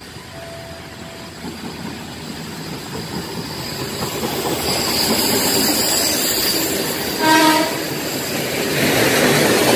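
Yellow railway rescue train approaching and running through a station, its running noise and wheels on the rails growing steadily louder. A short horn blast sounds about seven seconds in.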